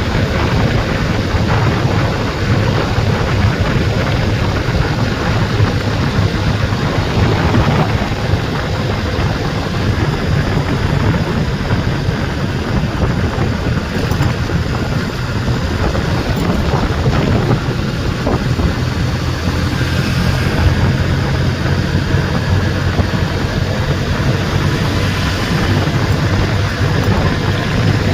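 Continuous loud wind noise on the microphone over a low, steady rumble, as heard while riding a bike.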